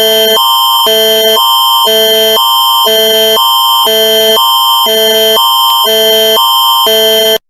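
Canadian Alert Ready attention signal: two chords of tones alternating every half second over a steady high tone, cutting off abruptly near the end.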